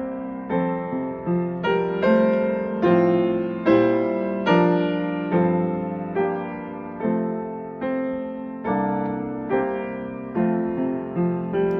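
Solo piano playing a hymn accompaniment at a slow, gentle pace: chords struck about once or twice a second, each ringing and fading before the next.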